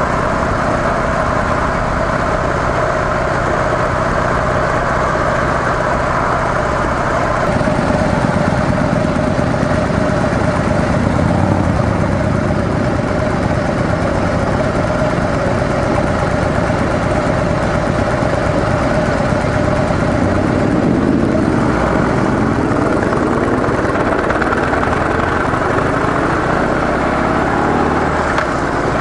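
Harley-Davidson CVO Softail Deluxe's air-cooled V-twin with stock mufflers running on the road. The engine note changes about a quarter of the way in, and near the end it rises in pitch several times.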